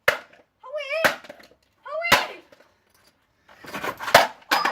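Hard blows smashing a vacuum cleaner's plastic housing: sharp cracks about once a second, with a clattering flurry of hits and rattling parts near the end.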